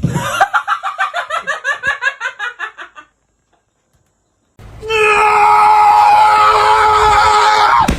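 A fast, laugh-like run of short voiced pulses, about eight a second, for about three seconds. After a brief silence comes one long, loud scream held at a steady pitch that cuts off at the end.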